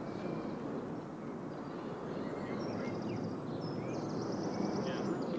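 Small birds chirping, with a quick high trill repeated a few times in the second half, over a steady low rumble of outdoor background noise.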